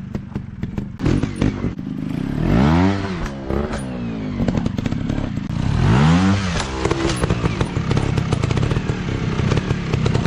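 Dirt bike engine revving up and dropping back twice, over a steady running note, with clattering ticks throughout.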